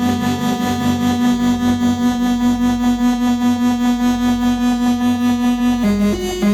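Eurorack modular synthesizer playing a sustained, buzzy drone held on one pitch, pulsing rapidly in loudness. Near the end the pitch begins to step up and down in a sequence.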